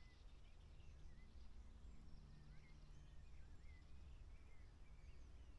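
Faint birds chirping in the open countryside: short, scattered calls that rise and fall in pitch, over a steady low rumble.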